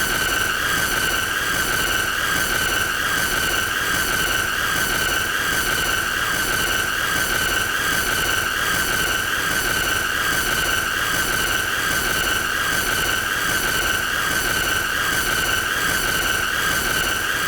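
A continuous high-pitched squealing tone with overtones, held at a steady level and wavering slightly in pitch, without a break.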